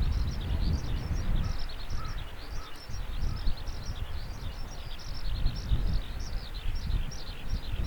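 Small bird calling continuously in quick, short, falling chirps, about three or four a second, over a low, uneven rumble.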